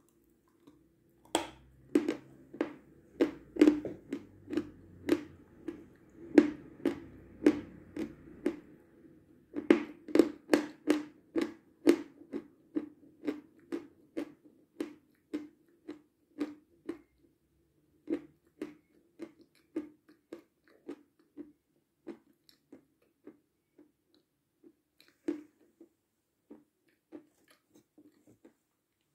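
A person chewing a hard, dry mouthful close to the microphone, with crisp crunches about two a second. The crunches are loud for the first ten seconds or so, then grow softer and sparser.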